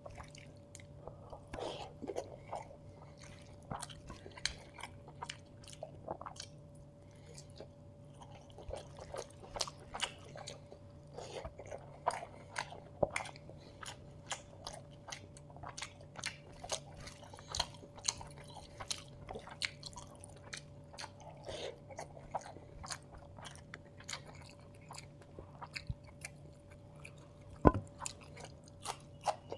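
Close-miked eating: many quick wet chewing and crunching clicks as a mouthful of chicken biriyani with raw onion is eaten, with one sharp loud click near the end.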